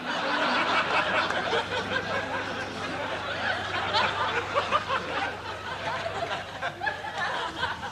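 Studio audience laughing, many voices together, continuing steadily.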